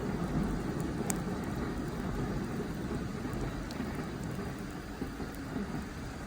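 Wood fire burning in a steel fire stand: a few sharp crackles, about one second in and near four seconds in, over a steady low rushing noise.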